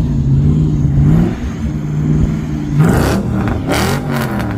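Vehicle engine running close by, its pitch holding and then shifting up and down, over a low rumble. Two short hissing sounds come about three and four seconds in.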